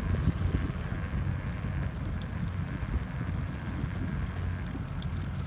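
Car driving, with a steady low engine and road rumble. Two faint clicks come about two and five seconds in.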